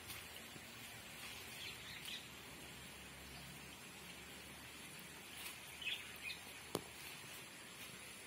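Faint outdoor ambience with birds chirping a few times, and one sharp click about two-thirds of the way through.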